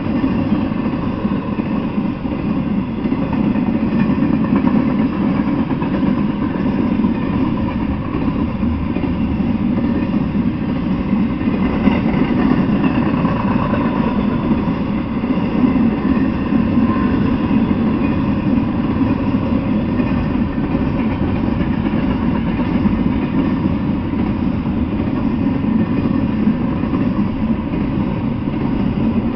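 Intermodal freight train rolling past, a steady rumble of steel wheels on the rails.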